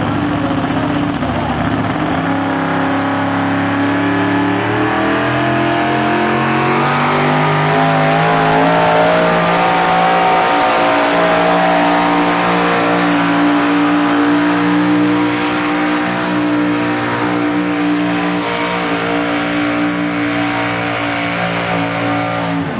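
Modified pulling tractor's engine at full throttle pulling the sled: the revs climb over the first several seconds, then hold high and steady, and the engine note ends abruptly at the end.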